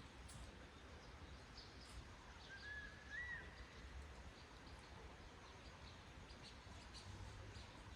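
Faint bird calls over a low, steady rumble: one short whistled call, rising then arching over, about three seconds in, with scattered high chirps.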